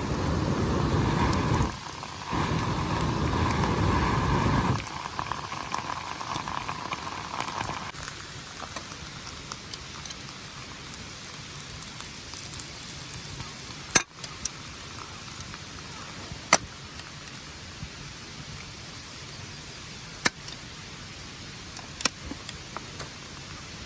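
Wood campfire crackling, with sharp single pops every few seconds over a quieter hiss. For the first five seconds a louder rushing noise sits over it.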